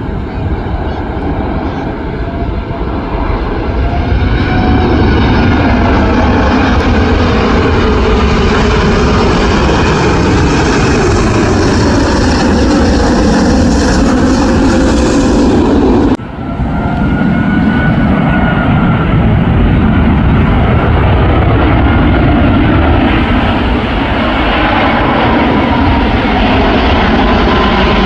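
Jet airliners passing low overhead on approach to land: a loud, steady engine rush with slowly falling tones. It breaks off abruptly about 16 seconds in, and a second aircraft passing is heard after the break.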